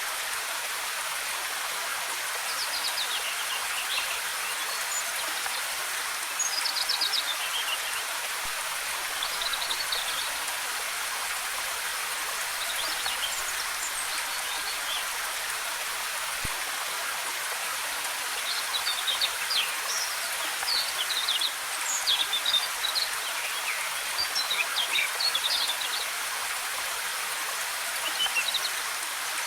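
Steady rush of a waterfall, with forest birds calling over it in short chirps and trills, busiest in the second half.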